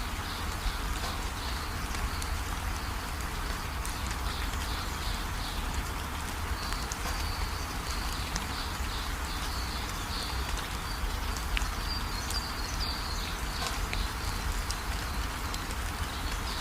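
Steady rain, with scattered drops ticking on a surface. Under it runs high-pitched chirping in short repeated runs that come and go.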